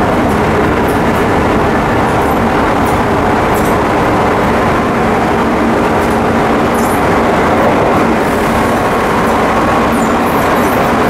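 Chiba New Town Railway 9800 series electric train running between stations, heard from inside the car: a steady rolling noise of wheels on rail with a low, even hum under it.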